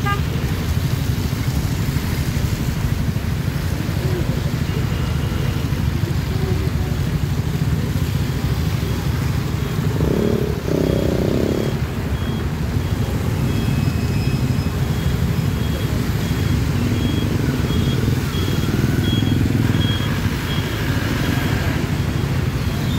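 Road traffic in a jam: surrounding vehicle engines idling and rumbling steadily, with a short two-part honk about ten seconds in and a faint, high, repeated beeping through the second half.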